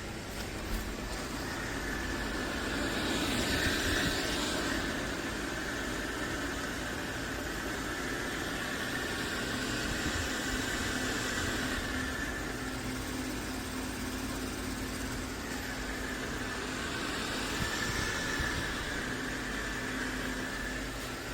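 MOVA P10 Pro Ultra robot vacuum running: a steady motor whir and suction hiss with a thin high whine, growing louder twice as the robot comes closer.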